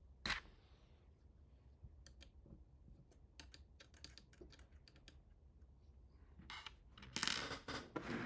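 Light clicks and taps of small hard parts being handled, with a louder burst of clicking and scraping near the end.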